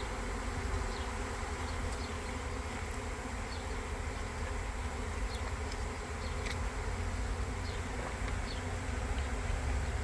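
Honeybee swarm buzzing steadily in the air around a hive as the bees move in.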